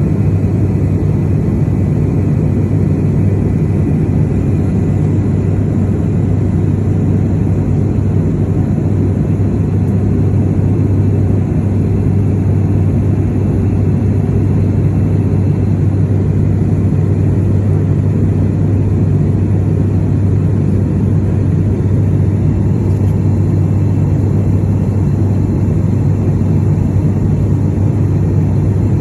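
Steady low drone of an aircraft in flight heard from inside the cabin, an even hum of engine and airflow noise that holds unchanged throughout.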